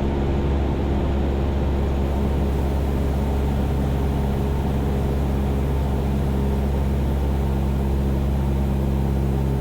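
Cessna 172's piston engine and propeller droning steadily in cruise flight, heard inside the cabin.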